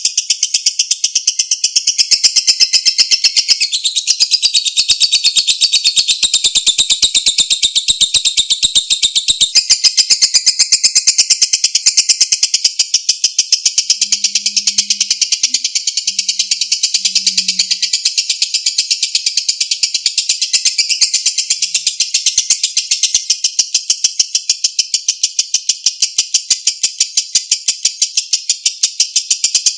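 Lovebird singing a long, unbroken ngekek: a very rapid, high-pitched chattering trill that runs on without a pause.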